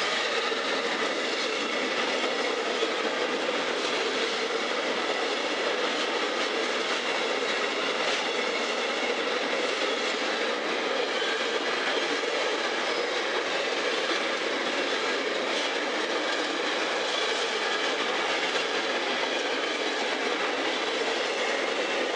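Container wagons of a long freight train rolling past close by: a steady, even noise of steel wheels on rails that holds at the same level throughout.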